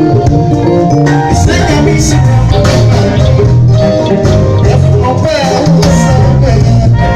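A police band playing live at a sound check: loud, upbeat music with a stepping bass line, melodic instruments and steady percussion.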